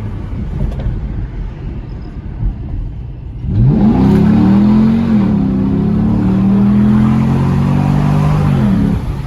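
Car engine and exhaust, still fitted with its factory resonators, under hard acceleration. It runs low for a few seconds, then about three and a half seconds in it revs up sharply and gets louder. It holds a steady high note for about five seconds and eases off near the end.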